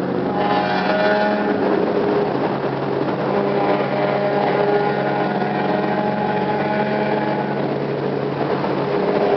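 Nissan 300ZX's V6 engine running at fairly steady revs, its pitch holding nearly level with only slight shifts.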